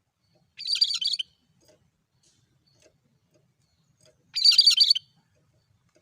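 Cucak kerinci bird calling twice, about three and a half seconds apart: each call a short, high, rapid burst of chattering notes lasting about half a second.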